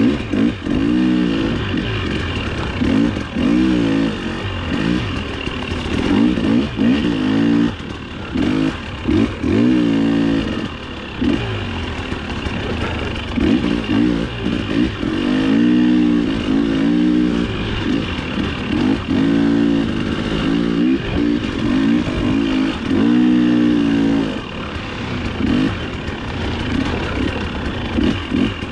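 Dirt bike engine revving up and down over and over as the bike is ridden hard along a race course. The pitch climbs and falls many times.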